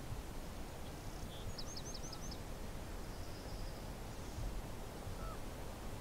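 Wind buffeting the microphone with a steady low rumble, while a small bird calls: a quick run of about five short high chirps a second and a half in, then a brief buzzy trill.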